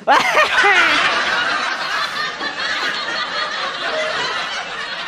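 Loud audio played back through PA speakers being tested, starting suddenly with a few falling pitch sweeps and going on as a dense warbling sound that slowly fades.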